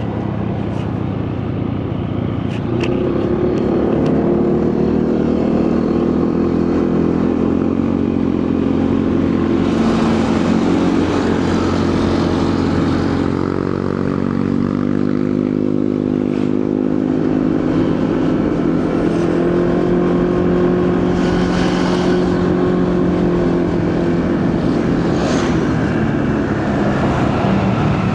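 Motorcycle engine running on the move: it picks up about three seconds in, eases off about halfway, then pulls up again, with wind and road noise. Two short rushes of noise, about ten seconds in and again about twenty-two seconds in, come over it.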